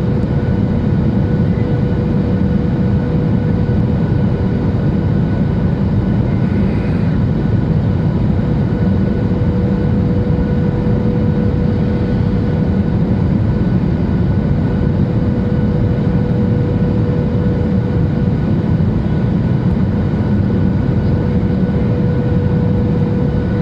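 Steady in-flight cabin noise of a Boeing 737-800: the constant rush of airflow and the CFM56-7B engines, with a faint steady hum running through it.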